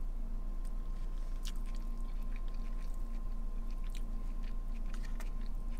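A person chewing a mouthful of a chicken, rice and lettuce bowl, with faint scattered clicks of the mouth and fork, over a steady low hum.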